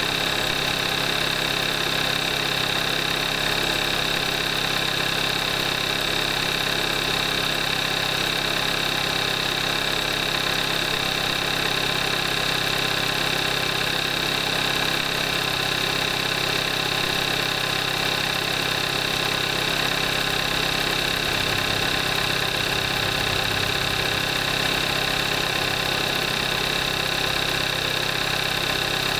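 2014 Kia Forte5's 2.0-litre GDI direct-injection four-cylinder engine idling steadily, at 38,300 miles on synthetic 5W-20 oil.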